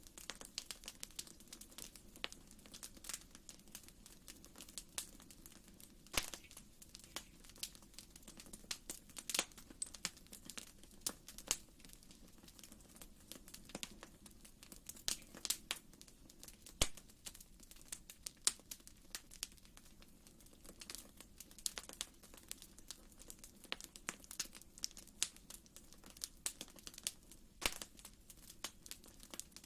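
Wood fire crackling in a fireplace: quiet, irregular pops and snaps over a steady low rumble of the flames.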